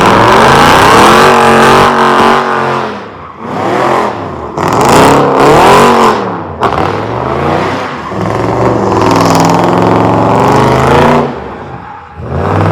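Car engine revving hard at high volume, in three long revs that climb and fall in pitch.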